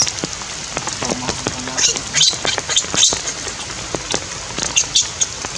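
Rain pattering and dripping, with a baby monkey giving short high-pitched squeaky cries again and again.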